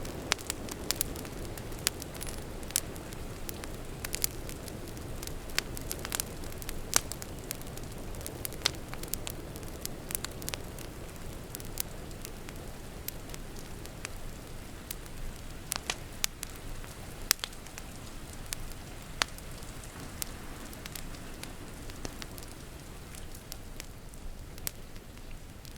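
Wood fire crackling, with irregular sharp pops over a steady low hiss of rain falling outside.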